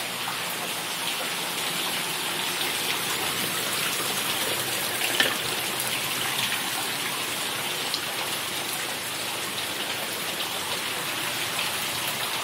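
Rainwater pouring into the house in a steady splashing rush, an indoor waterfall from heavy rain. A single short sharp knock or splash stands out about five seconds in.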